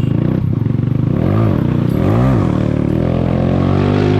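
Zanella Sapucai 200's single-cylinder four-stroke engine revving up and back down twice in quick throttle blips, then pulling steadily with its pitch slowly climbing.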